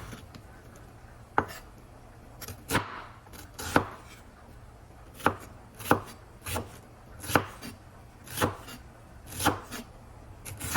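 Knife slicing an onion into thin slices on a cutting board: about ten sharp knocks of the blade on the board, unevenly spaced at roughly one a second.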